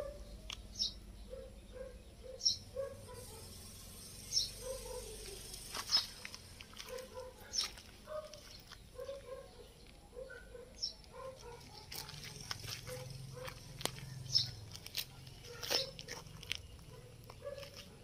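Birds chirping: a steady run of short soft calls, with a sharper, higher chirp every second or two.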